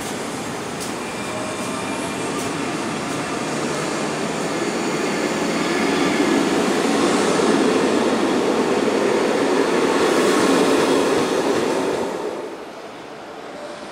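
SNCB electric multiple-unit train moving along the platform, a steady rumble of wheels on the rails that grows louder over the first several seconds. The sound drops off abruptly near the end, leaving quieter station background.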